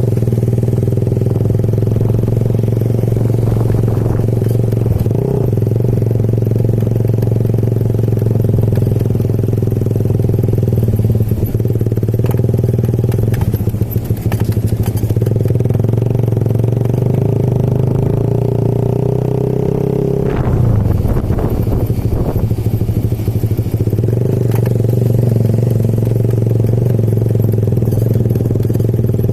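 Motorcycle engine running steadily while riding, a constant drone with a few light clatters. The engine note shifts about two-thirds of the way through, then settles again.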